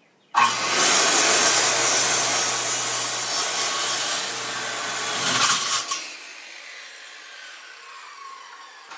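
Electric power saw cutting through pressure-treated 2x6 lumber. The loud cut starts suddenly about half a second in and lasts about five seconds. It then stops, and the saw is heard winding down with a falling whine.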